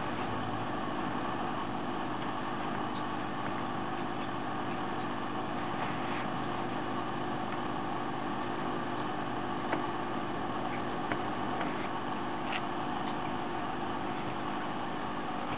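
Steady mechanical hum with a few faint, short clicks scattered through it.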